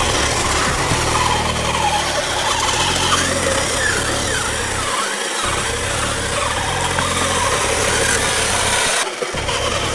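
Kyosho Blizzard SR radio-controlled snow vehicle driving, its electric motor whining, the pitch rising and falling again and again with the throttle.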